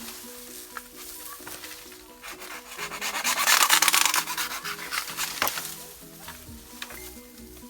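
Background music with a melody, over which a hand saw rasps through bamboo, swelling to its loudest a few seconds in and then fading.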